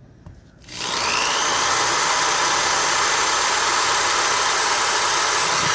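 Corded electric drill starting up under a second in with a brief rising whine, then running steadily as it bores a hole through a laptop's case.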